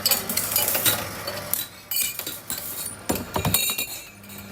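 Hard objects clinking and rattling against each other in quick, irregular strikes, some with short ringing tones.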